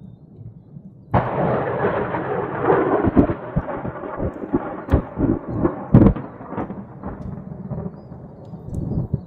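Thunder from a close cloud-to-ground lightning strike, likely a positive strike. It breaks suddenly about a second in and crackles with several sharp cracks, the loudest near the middle, then rumbles away toward the end.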